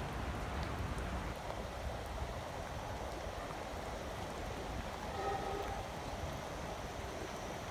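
Steady rain falling, an even hiss over a low rumble, with a brief faint tone about five seconds in.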